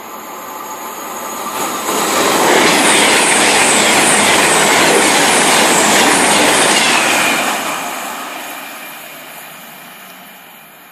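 A train passing through a station at speed without stopping: its noise builds, is loud for about five seconds with a repeating rhythm about twice a second, then fades away.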